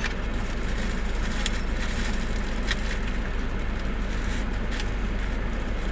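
Steady low hum inside a parked car with its engine idling, broken by a few light clicks.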